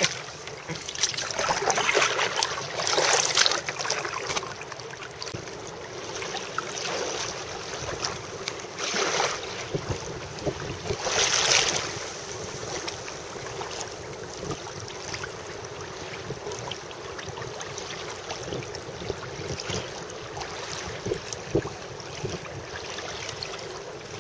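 Water sloshing around a kayak, with wind buffeting the microphone and a few louder rushing gusts or splashes in the first half.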